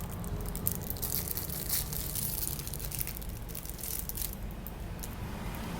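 Packaging being handled and unwrapped by hand: irregular crinkling and crackling, busiest in the first few seconds and thinning out near the end.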